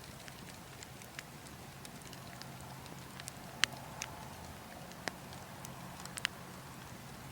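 Burning logs crackling: scattered sharp pops at irregular intervals, the loudest about halfway through and another near the end, over a steady low background noise.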